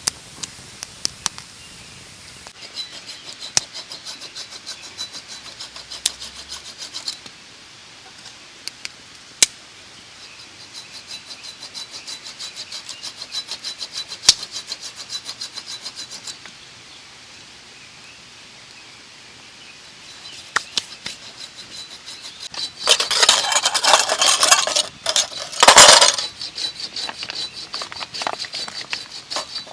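Camp cookware being handled: scattered metal and glass clinks and knocks, with stretches of quick, even ticking and a brief loud rustling burst near the end.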